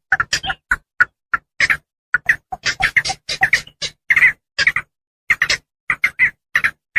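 Calls of Javan pond herons (blekok sawah): a rapid, irregular series of short calls, about three or four a second, with dead silence between them, as in a looped lure recording played to attract the birds.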